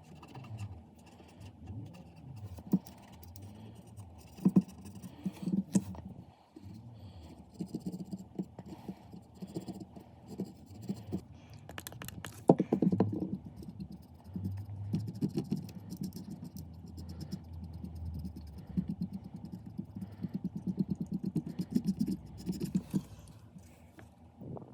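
Irregular scratching and scraping from hand work, with a few sharper knocks along the way.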